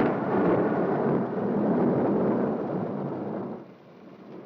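A peal of thunder: a sharp crack, then a loud rumble that dies away about three and a half seconds in.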